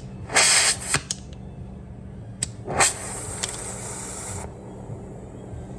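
Compressed gas hissing out at a refrigerator's refrigerant lines: a short loud blast, a second blast, then a steady high hiss for about a second and a half that cuts off suddenly, over a low steady hum.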